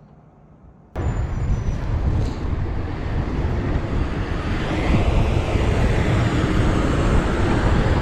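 Steady road-traffic noise with a deep rumble, cutting in suddenly about a second in after a quiet moment.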